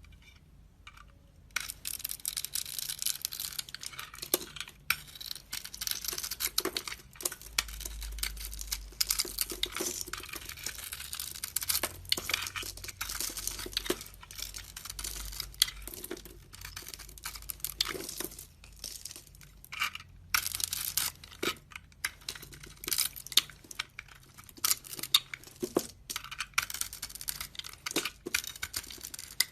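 A knife carving into a bar of soap: a crackling, scraping sound with many small clicks as shavings break off, starting about a second and a half in and going on in strokes with brief pauses.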